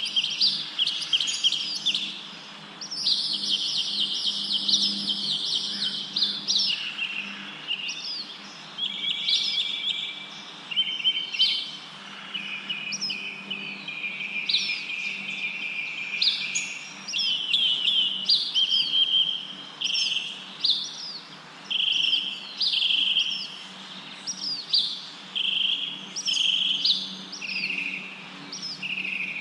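Several songbirds chirping and trilling without a break, many short quick notes overlapping into a busy chorus. A faint steady low hum runs underneath.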